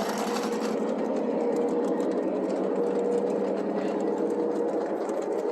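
Electric model trains running on the layout: a steady motor-and-gear whine with a constant hum of wheels rolling on track.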